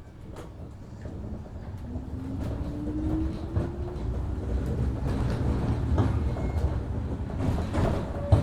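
JR 103 series 1500 subseries electric train pulling away from a stop, heard from inside the car: the traction motor hum rises in pitch as it accelerates, over a low rumble that grows louder, with scattered knocks from the wheels and joints.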